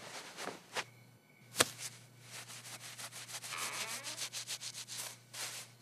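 Scratchy rubbing and rustling noises: a sharp click about a second and a half in, then a quick run of short scraping strokes.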